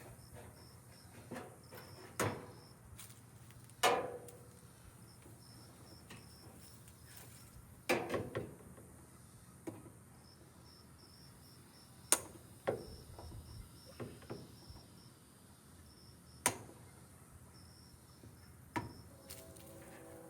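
Scattered sharp clicks and knocks of hand tools and metal parts as a scrap washer or dryer is taken apart for its copper wire, about seven of them spread out. Crickets chirp in short pulsed trains in the background.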